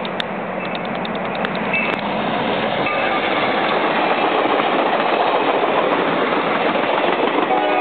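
Norfolk Southern passenger train, a diesel locomotive followed by passenger cars, passing close by: a steady rush of wheel and rail noise that grows louder as the cars go past, with a quick run of clicks in the first couple of seconds.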